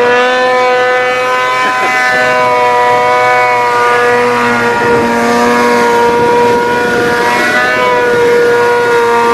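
Snowmobile engine held at high revs, a loud steady whine with only small dips in pitch.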